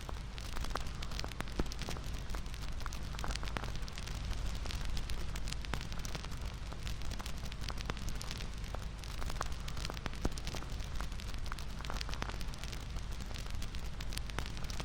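Wood fire crackling: a steady low rush of burning logs with frequent sharp pops and snaps.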